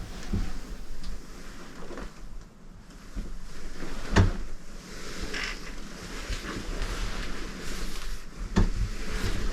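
A few dull knocks and bumps, like gear being handled, the loudest about four seconds in, over a steady rushing noise.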